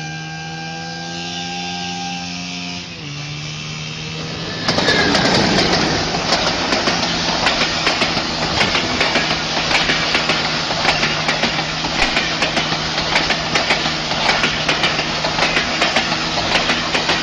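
A train's engine running with a steady hum, its pitch dropping slightly about three seconds in. From about five seconds in, a loud rushing noise full of clicks and rattles joins it and keeps on.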